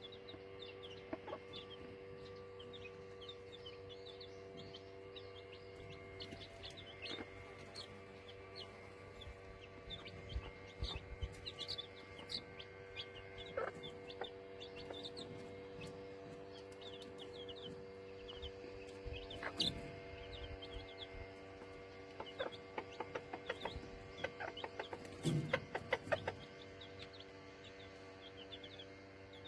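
A brood of week-old chicks peeping constantly in short high chirps, with the mother hen clucking now and then; the calls bunch up and are loudest about three-quarters of the way through.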